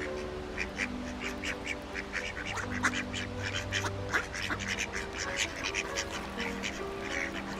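A flock of ducks quacking in quick, dense overlapping calls, over background music of long held notes.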